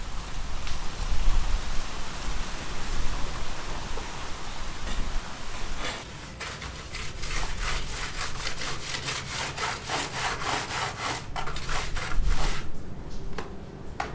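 A steady hiss, then from about six seconds in a run of quick, rhythmic rasping strokes, several a second, which stop shortly before the end.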